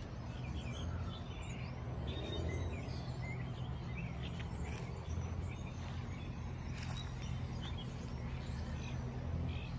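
Small birds chirping, with short calls coming again and again, over a steady low rumble.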